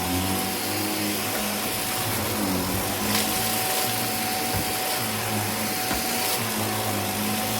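Vacuum cleaner running steadily, its motor giving a constant rushing noise with a fixed whine and low hum, and a few light knocks as it moves.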